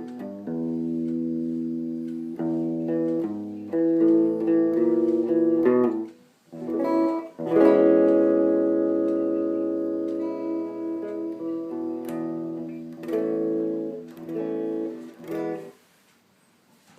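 Guitar played through a homemade Ruby amplifier, a small LM386 chip guitar amp, picking and strumming chords. About halfway through, one chord is left ringing and slowly fades, and the playing stops near the end.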